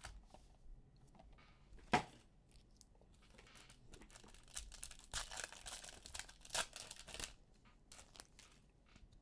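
A blaster box of trading cards and its foil card packs being torn open: crinkling and tearing of wrapper and cardboard, with a sharp snap about two seconds in and a busy run of tearing past the middle.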